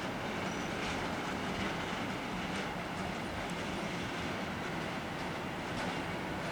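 A train running on the track with a steady rumble and a few faint, irregular clicks.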